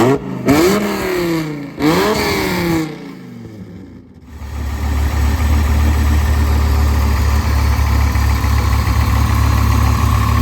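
2002 Dodge Viper RT/10's 8.2-litre stroker V10, fitted with custom headers and a full 3-inch exhaust, blipped quickly about three times in the first few seconds. It then settles, from about four seconds in, into a loud, steady idle.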